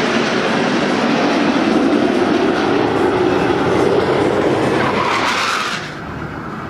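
Jet engines of the Patrouille Suisse's Northrop F-5E Tiger II formation running loud in a flypast, with a pitch rise in the noise, dropping off suddenly near the end.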